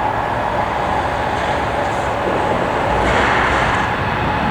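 Aircraft jet engines running, a steady loud rush with a held whine that swells slightly about three seconds in.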